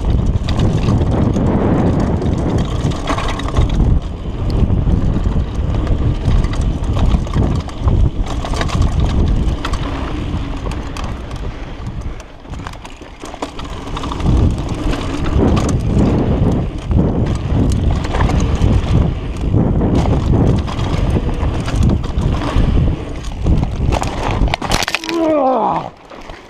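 Mountain bike descending a dirt downhill trail at speed: tyres on dirt, the bike rattling over bumps and wind buffeting the camera microphone. Near the end the riding noise drops off sharply, with a brief falling pitched sound.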